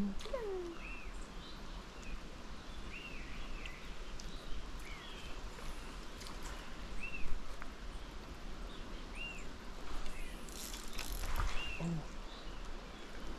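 A small bird repeating a short, arched chirp every second or two. A few rustles and knocks come in between, the sharpest about seven seconds in and a cluster around eleven seconds.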